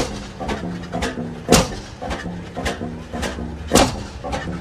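Oversize single-cylinder two-cycle stationary engine running under governor control: it fires with a sharp pop three times, roughly every two seconds, and between firings it turns over without fuel, giving lighter regular clicks about twice a second.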